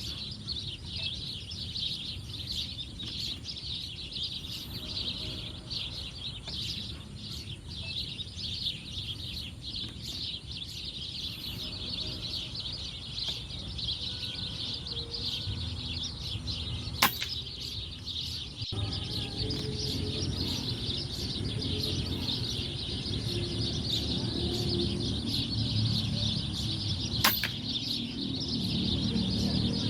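A dense chorus of many small birds chirping without a break, over a steady low rumble. Two sharp cracks of airgun shots stand out, one about midway and one near the end.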